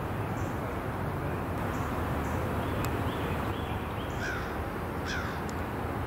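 A few short bird calls, most of them in the second half, over steady background noise.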